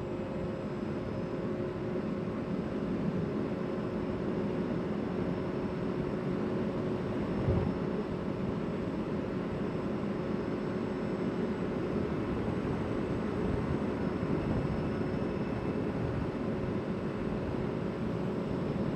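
CFMoto CForce 800 ATV's V-twin engine running steadily, with a single brief knock about seven seconds in.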